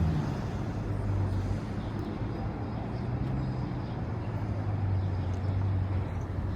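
A motor vehicle's engine running with a steady low hum, over the general noise of street traffic.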